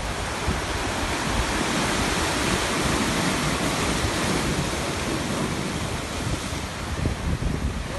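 Sea waves washing onto the shore: a steady rush of surf that swells through the middle and eases off toward the end, with low wind rumble on the microphone.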